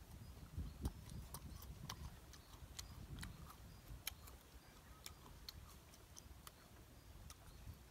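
A person chewing crisp raw guava with chili salt, mouth open: sharp, irregular crunches, a few a second.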